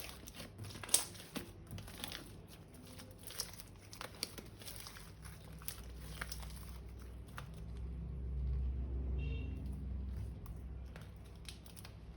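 Crinkling and crackling as slime-making materials are handled, a run of small crackles that thins out after about six seconds. A low hum swells in the second half.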